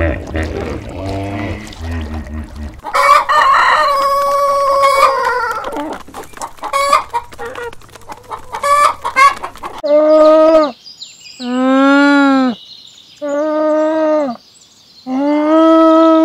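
Chickens clucking and a rooster crowing, then four long, drawn-out calls from an alpaca, each rising and falling in pitch with gaps of about a second between them.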